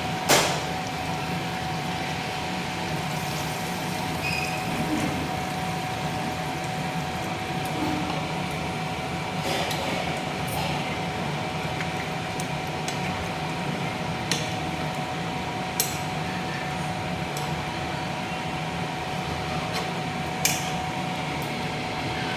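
Chicken curry simmering in a pot, a steady bubbling hiss under a faint steady hum. A few sharp clinks of a utensil against the pot come at scattered moments.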